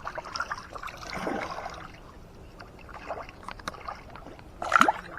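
Light splashing and sloshing of water, with faint voices in the background.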